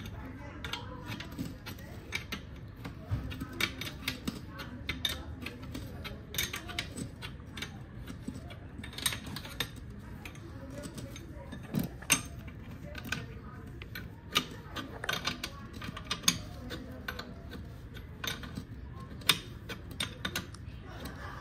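Pair of threaded coil-spring compressors being tightened on a car strut's coil spring: irregular metallic clicks and ticks, with the work alternating between the two compressors as the spring is squeezed.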